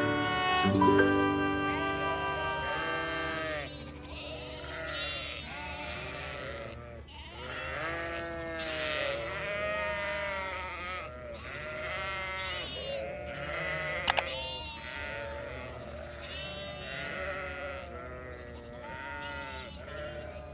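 A herd of goats bleating, many calls overlapping one after another. Music plays for the first few seconds, and a single sharp click comes about two-thirds of the way through.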